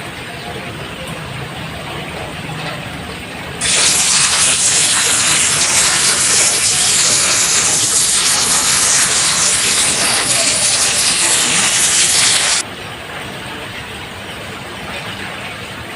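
Steady rain falling on a roof. About four seconds in, a much louder, higher hiss of heavier water noise cuts in abruptly, then stops just as suddenly near thirteen seconds.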